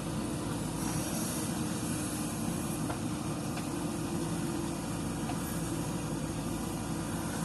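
JCB 3DX backhoe loader's diesel engine running steadily while it works.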